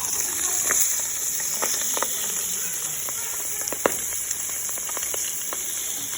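Fish deep-frying in hot oil: a steady sizzle with scattered pops and crackles.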